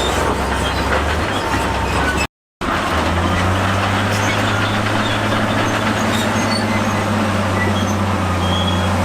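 Heavy diesel earthmoving machinery running steadily, with a metallic clatter and scattered small clicks. About two seconds in the sound cuts out briefly, and it returns with the engine running at a higher pitch.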